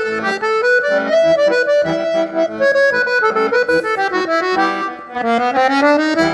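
Accordion (sanfona) playing a fast instrumental melody, the closing phrase of a song after the last sung line. The notes dip briefly about five seconds in, then the final notes die away at the end.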